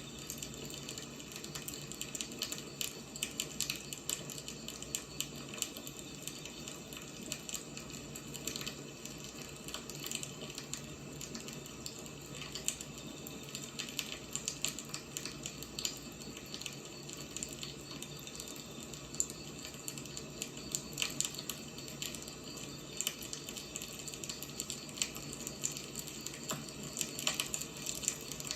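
Firewood burning in a fire: a steady hiss with frequent, irregular crackles and pops.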